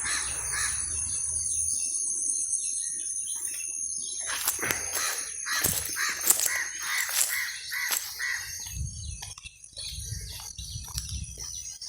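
Crows cawing, a run of calls in the middle, with smaller birds chirping, over a steady high-pitched whine. A low rumble is heard at the start and again near the end.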